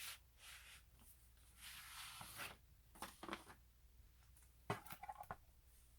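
Faint handling noises from merchandise packaging: soft rustles of paper or plastic, then a few light clicks and taps near the end.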